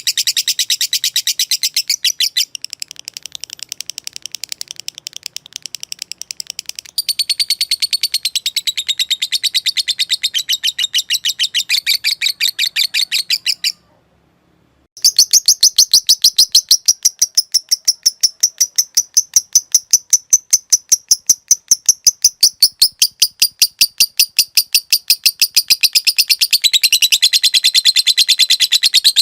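Lovebird giving a long 'ngekek' chattering trill: a fast, unbroken run of high-pitched chirps. It softens for a few seconds near the start, stops for about a second midway, then resumes louder and continues.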